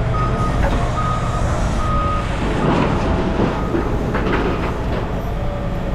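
A heavy vehicle's engine running with its reversing alarm beeping about once a second; the beeping stops about two seconds in and is followed by a rattling clatter.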